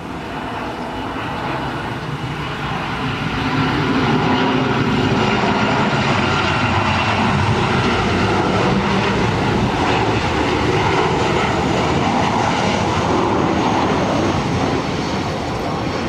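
Boeing 747-400 freighter's four jet engines passing close as it comes in to land, the noise swelling a few seconds in, staying loud, then easing near the end.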